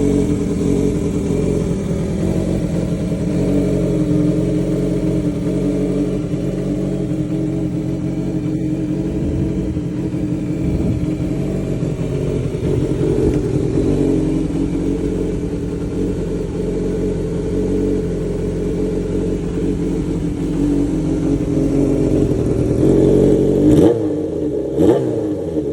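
Kawasaki Zephyr 400χ's air-cooled inline-four engine running steadily at idle, then given a couple of quick throttle blips near the end that sweep the pitch up and back down.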